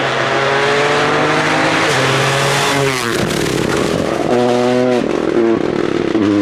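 Rally car engine at full throttle, its note climbing for about three seconds, then falling sharply at a gear change or as the car goes past. It picks up again at a high pitch, with another quick drop about five seconds in.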